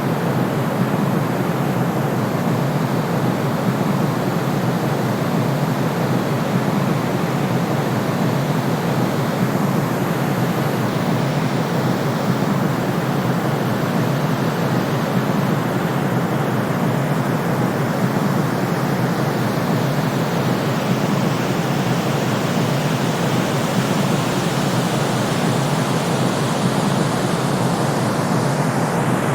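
Steady, unchanging white noise for sleep: an even hiss weighted toward the low end, with nothing below a low cut-off.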